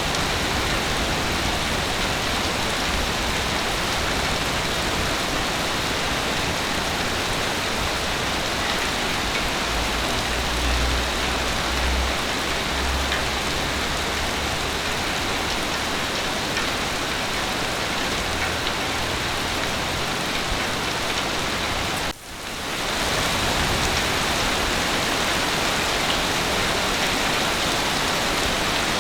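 Heavy rain falling steadily, with a low rumble around the middle and a sudden brief drop in level about three quarters of the way through.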